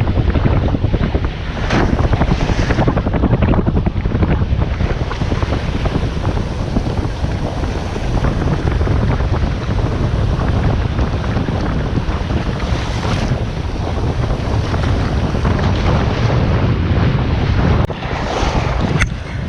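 Strong wind buffeting the microphone over waves breaking on the shore, a steady loud rumble heaviest at the low end.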